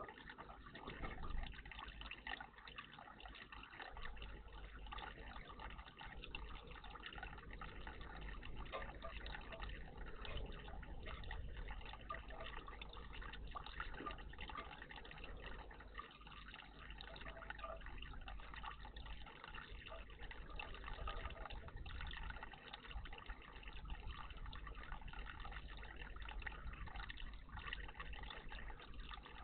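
Steady trickling and splashing of running water in a garden bird bath.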